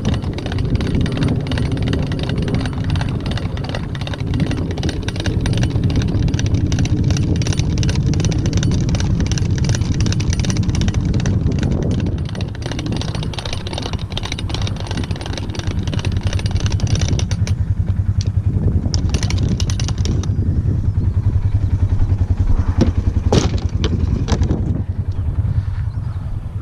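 Polaris farm vehicle's engine running steadily, with a few sharp clanks near the end.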